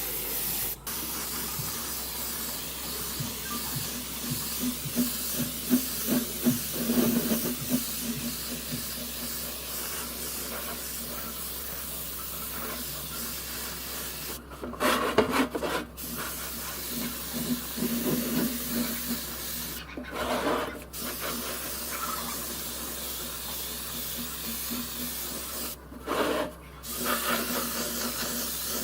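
Steady hiss of a compressed-air spray, with a low hum underneath. The spray cuts off briefly three times and starts again each time.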